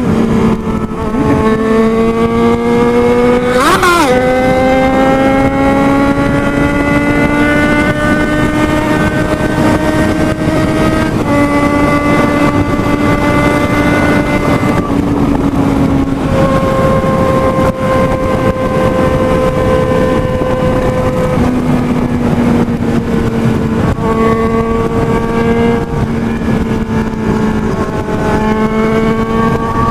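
Sport motorcycle engine running hard at high road speed, a steady high engine note that climbs slowly and steps in pitch a few times, over a rush of wind. About four seconds in, a brief swooping engine sound passes by.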